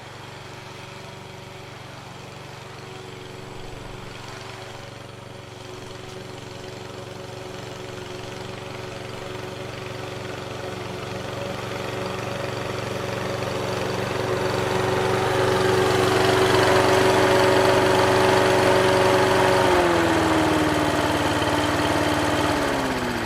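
Victa Ultimate battery-powered lawn mower running with a steady motor whine. It grows louder as it cuts grass, with a hiss of cutting over it. About twenty seconds in the pitch drops, and it winds down further near the end as the motor slows.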